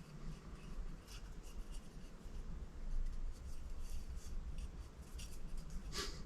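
Faint scraping and small clicks of metal and plastic parts being handled and worked loose during the disassembly of an electric supercharger, with a somewhat sharper click near the end.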